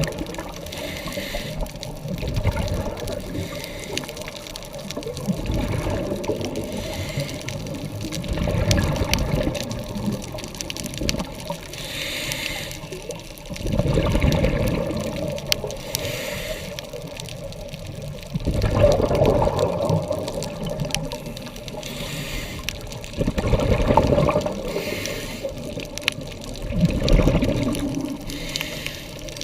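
Scuba diver breathing through a regulator underwater: a bubbling rush of exhaled air every four to five seconds, with quieter stretches between.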